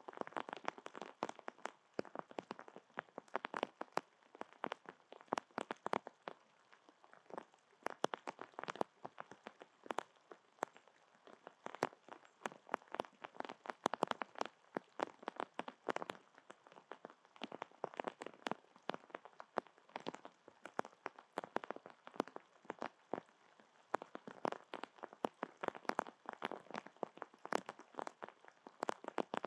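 Raindrops hitting a surface close to the microphone: a dense, irregular run of sharp little taps, many per second, that never settles into a rhythm.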